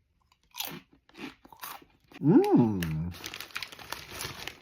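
Crunching bites and chewing of a crisp snack close to the microphone, with a hummed 'mmm' that rises and falls in pitch about two seconds in, the loudest part.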